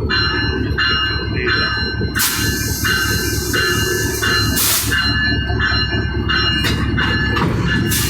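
Locomotive engine running at idle with a steady low rumble, hisses of air a few times, and a high beeping tone repeating a little under twice a second.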